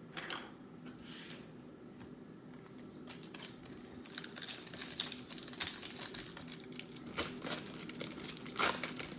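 Wrapper of a 2021 Donruss Football trading-card pack being torn open and crinkled by hand. There are a couple of soft rustles at first, then a dense run of short crackles from about three seconds in.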